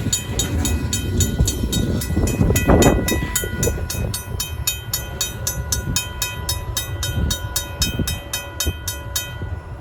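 RACO mechanical grade-crossing bell ringing in rapid, even strokes over the low rumble of a moving Union Pacific train. The bell stops near the end, as the crossing signals shut off.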